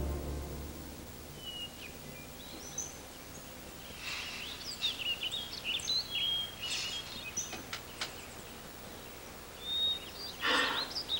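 Birds chirping and twittering in short scattered calls with quick pitch glides, busiest in the middle and again near the end. A low musical drone fades out in the first moment, and a short rustling noise comes about ten and a half seconds in.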